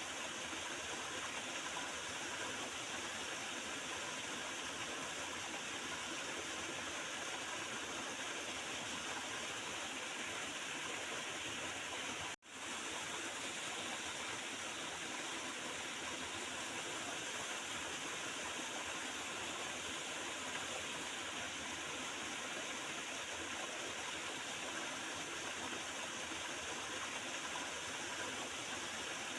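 A small river's water running and gurgling steadily. It breaks off for an instant about twelve seconds in.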